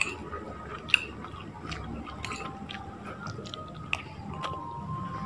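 Close-up chewing of soft eggplant and rice, with a few sharp clinks of a metal spoon, about a second in and again near four seconds.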